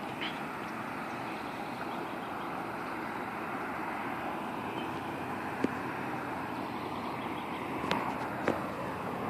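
Steady outdoor rushing noise with no clear pitch, broken by three short sharp clicks, one about halfway and two near the end.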